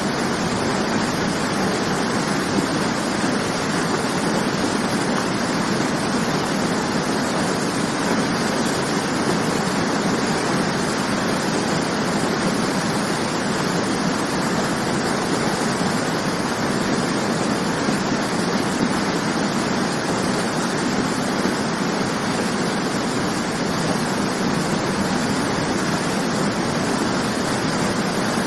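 Waterfall: water falling and splashing as a steady, unbroken rush.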